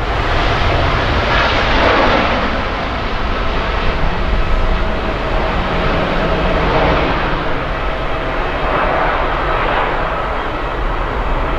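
Jet airliner engines running close by: a loud, steady rush of engine noise with a faint steady whine through it, swelling and easing slightly every few seconds.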